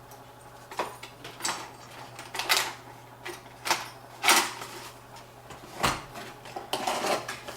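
Packaging of a boxed desktop CPU and its stock cooler being handled: several short clacks and scrapes of cardboard and plastic, the loudest about halfway through.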